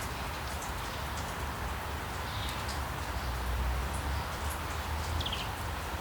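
Steady rain falling, with birds chirping over it: short high chirps and a few quick falling trills, the clearest a little after five seconds in.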